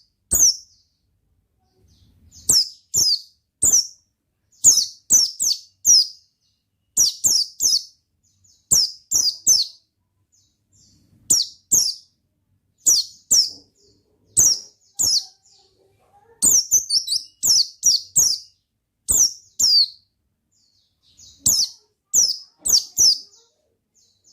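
A white-eye (pleci) chirping: clusters of two to four sharp, high notes, each falling in pitch, repeated with short pauses between clusters.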